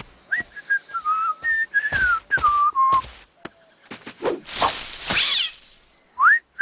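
Someone whistling a casual, wandering tune, note after note, for about three seconds. A noisy swish follows about five seconds in, and a short upward-sliding whistle comes near the end.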